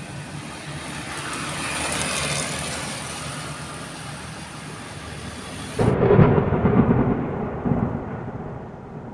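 Thunderstorm: a steady rain-like hiss, then about six seconds in a sudden loud, muffled low rumble of thunder that lasts to the end.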